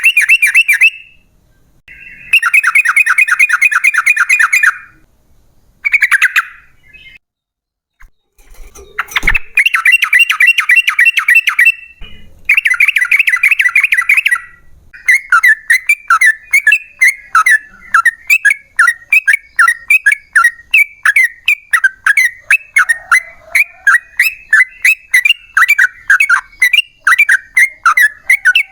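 Yellow-vented bulbul (trucukan) calling: several bursts of rapid chattering notes with short gaps, then from about fifteen seconds in a long, unbroken run of quick repeated notes.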